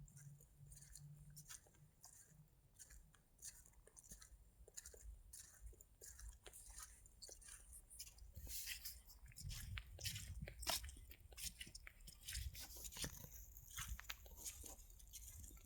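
Faint footsteps crunching through fallen autumn leaves: irregular crackling and snapping, denser in the second half.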